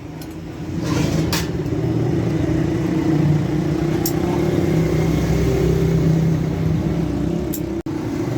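A motor or engine running steadily with a droning hum that grows louder about a second in, with a few sharp knocks over it.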